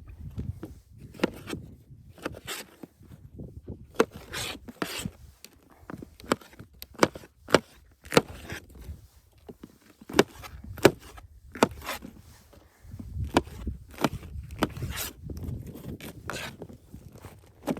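Wood being handled: irregular sharp knocks and clicks, roughly one a second, with some scraping and a low rumble that comes and goes.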